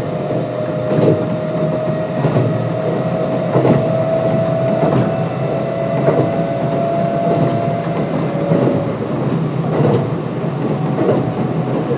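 Kintetsu 1259 series electric train running between stations, heard from on board: a steady rumble with the wheels clicking over rail joints about once a second, and a steady whine from the Hitachi GTO-VVVF traction drive that fades out about three-quarters of the way through.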